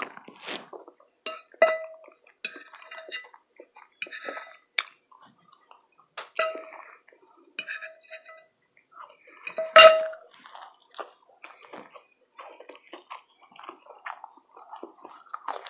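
Close-up chewing and mouth sounds of someone eating fish and grits, with a utensil clinking against a plate a number of times; the loudest, ringing clink comes about ten seconds in.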